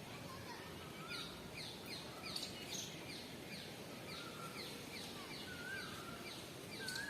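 Birds calling over steady background noise: a run of short, falling high chirps, two or three a second, with a lower wavering whistle repeating every second or two.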